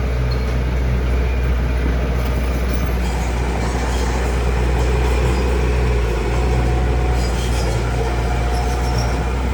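Heavy diesel construction machinery running steadily under load, a deep engine drone with faint metallic squeaks and clinks over it.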